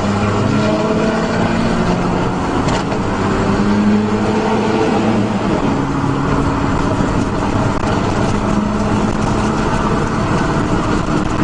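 Dump truck's diesel engine running hard under load, its pitch climbing near the start and again a few seconds in, then holding steady at speed.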